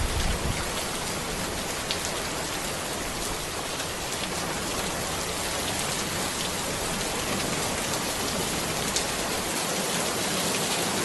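Steady rain falling on a road, an even wash of noise with individual drops ticking through it. A brief low rumble sounds right at the start.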